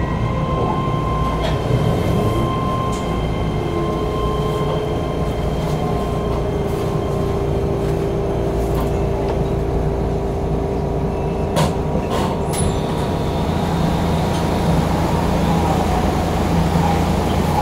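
Keihan electric train heard from inside the car as it slows and comes to a stand: a steady low rumble with high, level whining tones that fade out within the first ten seconds or so, then two sharp clicks about twelve seconds in and a low steady hum while the train stands.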